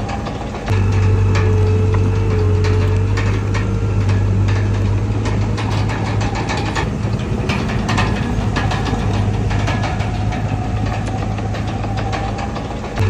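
Komatsu D31PX bulldozer's diesel engine running steadily, with irregular metallic clanks and knocks over it. The engine gets louder about a second in and holds there.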